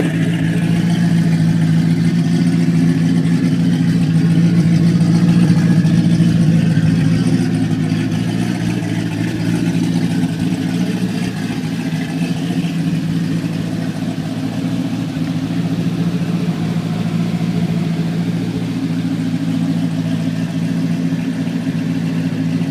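Twin-turbocharged, forged LS3 V8 of a 2006 Pontiac GTO running steadily with a low, even drone. It swells a little louder for a few seconds near the start, then settles.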